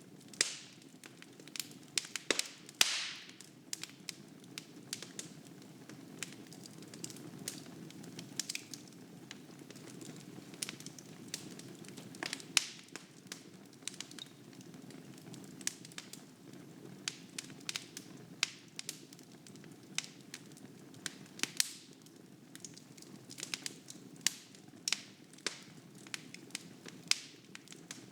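Wood fire burning in a fireplace: irregular crackles and sharp pops from the logs over a low, steady rush of flame.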